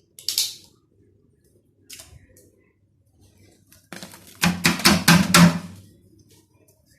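Household items being handled: a sharp clack, a few light taps, then a quick run of knocks and clatter about four and a half seconds in.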